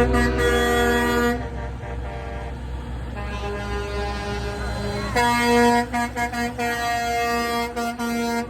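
Semi truck air horns blowing a chord of several notes over a steady low engine rumble. A loud blast stops about a second and a half in, a softer horn carries on, then loud blasts with short breaks return about five seconds in.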